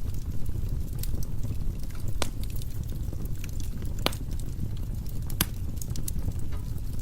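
Firewood burning in a fireplace: a low, steady rumble of the fire with scattered crackles and several sharper pops, the loudest about four and five and a half seconds in.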